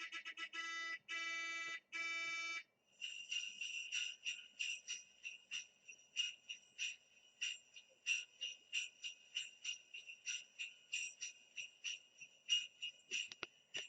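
A short run of repeated electronic ringing tones, then small jingle bells shaken in a quick, irregular jingle for about ten seconds. These are sound effects played back from a dog-sounds compilation.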